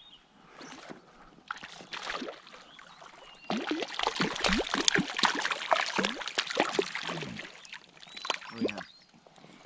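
Water splashing and sloshing at a lake's edge: a dense run of splashes starts about three and a half seconds in and dies away about nine seconds in.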